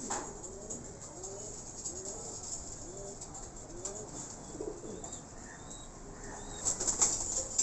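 Homing pigeons cooing, a run of short low rising-and-falling coos about one to two a second, with a brief louder rustle near the end.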